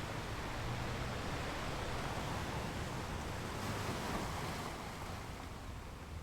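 Steady rush of wind and sea with a low, even ship's engine hum underneath.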